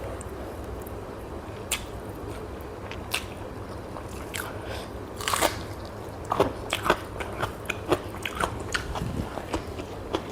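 Close-miked eating: biting and chewing food, heard as scattered sharp clicks and crackles over a low steady hum. The clicks come sparsely at first and grow denser from about halfway.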